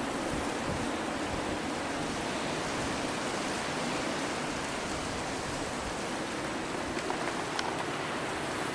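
Steady rushing noise of blizzard wind, with a couple of faint ticks near the end.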